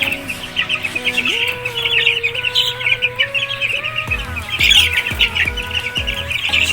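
A brood of Sweater Boston gamefowl chicks peeping continuously, many high chirps overlapping. Background music plays underneath, with a low bass beat coming in about four seconds in.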